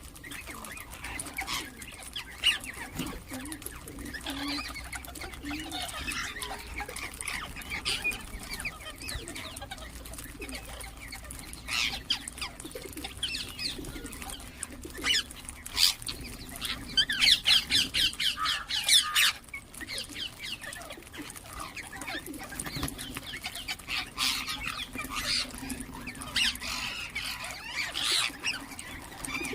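Ringneck parakeets chirping and calling, with a burst of rapid, loud screeching calls a little past the middle.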